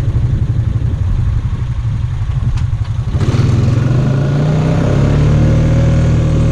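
ATV engine idling with a low rapid chug, then revving up about three seconds in and holding a steady, louder drone.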